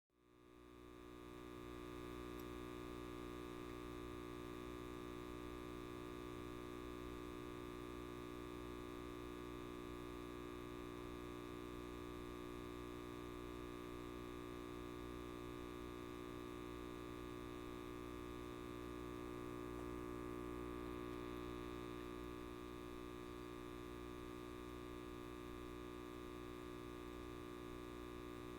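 Light bulb buzzing: a steady electrical hum with many even overtones. It starts out of a brief dropout and fades back up over about two seconds.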